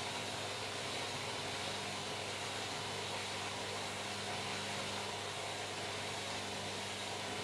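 Washing machine running with a steady, unchanging whirring hum.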